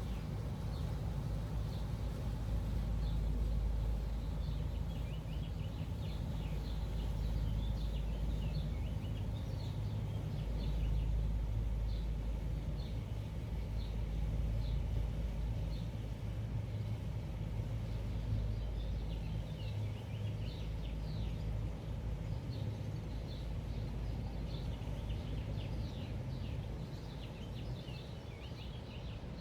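Small birds chirping in quick repeated bursts over a steady low rumble of city traffic or engines.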